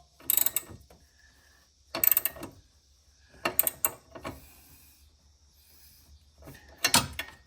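Metal tools and mower parts being handled, five separate bursts of clanks and rattles a second or two apart.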